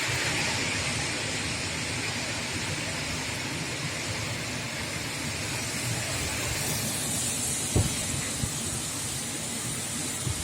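Strong mountain wind blowing, a steady rushing hiss with low rumbling buffets of wind on the microphone and a short knock about eight seconds in.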